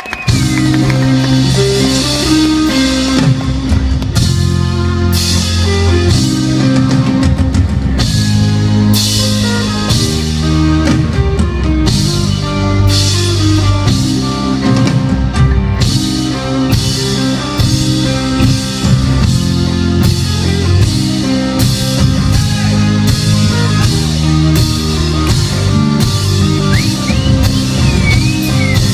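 Pop-rock band playing live through a PA: drum kit, bass and electric guitar coming in at full volume all at once and driving on with a steady beat.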